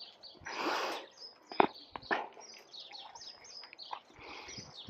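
Small birds chirping, with many short high chirps repeating throughout. A scuffing noise comes about half a second in, and two sharp knocks come between one and a half and two seconds in.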